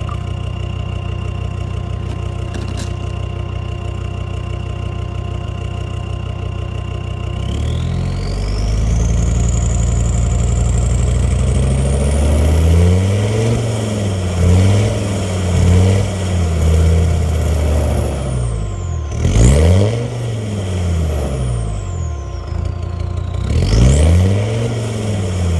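Land Rover Discovery 2's Td5 five-cylinder turbodiesel idling steadily, then revved up with a high whistle rising with the revs, its note wavering up and down as it is held in the middle revs, dropping back and rising again twice. This is the misfire it has between 1250 and 1750 rpm when warm, which the owner puts down to a fuelling issue.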